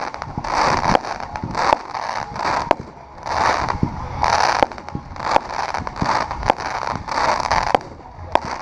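Bright Star 'Prime Rain' consumer fireworks cake firing a run of shots. Each sharp report is followed by about a second of hissing crackle from the bursting stars, and the shots repeat roughly once a second.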